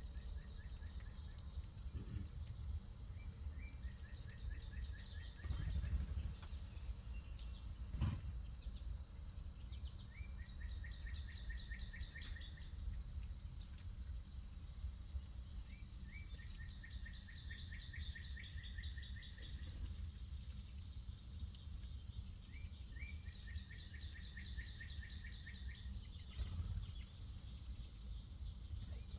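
Songbirds singing short trilled phrases, each a quick run of even notes lasting a second or two and repeated every few seconds, some pitched lower and some higher. A steady low rumble and a few faint ticks lie underneath.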